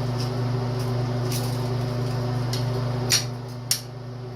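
Steady low electrical hum, with two sharp clicks about three seconds in as small metal carburetor jet-cleaner wires are handled; the hum eases after the first click.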